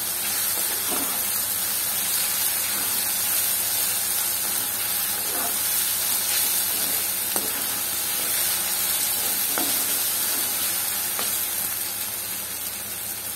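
Chopped onions, tomatoes and green chillies sizzling steadily in hot oil in a kadai as they are stirred with a steel spoon, which scrapes and clicks against the pan now and then. The sizzle eases slightly near the end.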